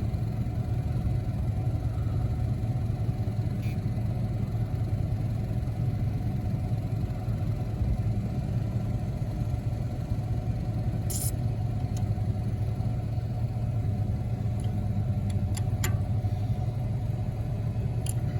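Steady low hum of a Toro 325 diesel mower's electric lift pump running with the ignition on, pushing fuel through the line while air is bled out at a cracked-open bleed screw. A few faint clicks come through late on.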